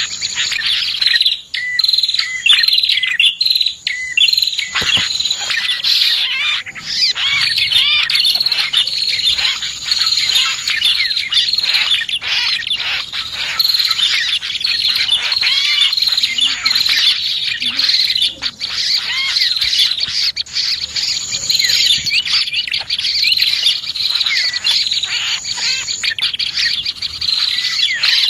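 Dense, continuous chirping and twittering of several small birds, including prinias (prenjak), played as a bird-lure call. A high, steady trill comes and goes every few seconds above the chirps.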